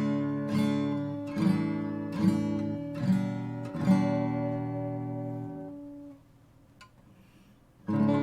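Art & Lutherie Wild Cherry acoustic guitar strummed, a chord struck about every second for the first four seconds, the last one left ringing until it fades away. After a short near-silent pause, a new strum comes in just before the end.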